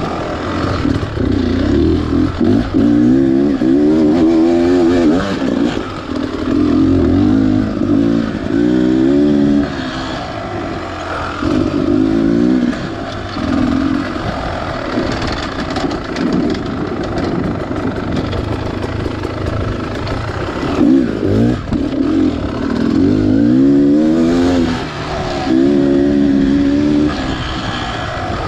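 Beta Xtrainer 300 single-cylinder two-stroke dirt bike engine revving up and down again and again as the throttle is opened and closed, its pitch rising and falling every second or two.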